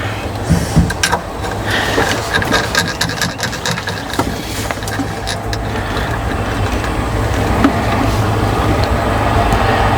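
An engine or motor running steadily, with scattered clicks and knocks of hand tools or parts being handled.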